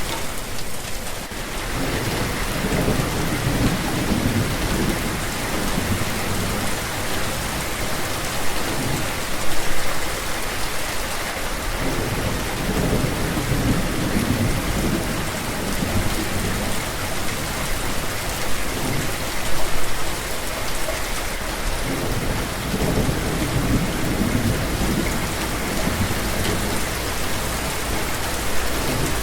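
Steady rain falling on a hard surface, with low rolling rumbles of thunder that swell and fade about every ten seconds.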